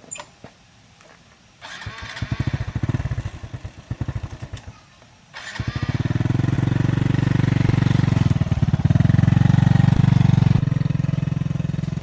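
A small engine being started: it fires and runs unevenly for a few seconds and dies, then catches again on the next start and settles into a steady run.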